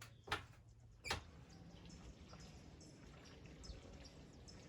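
Two sharp clicks, then a faint high chirp repeated about two or three times a second.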